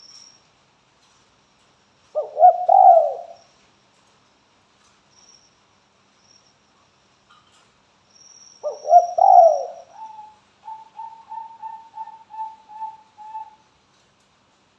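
Spotted dove (tekukur) cooing: two throaty coo phrases several seconds apart. The second runs straight into a string of short, quick repeated notes, about three a second. A faint high thin whistle comes and goes behind it.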